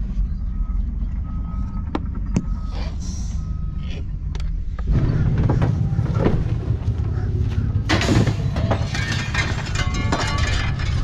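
Heavy truck engines running at a landfill, with a reversing beeper giving a few short beeps in the first few seconds. About five seconds in the engine noise grows louder; a hiss follows near eight seconds, then rattling and clanking of metal and debris.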